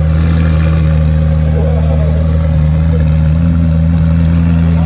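Car engine running at steady revs, a deep even drone with no revving up or down.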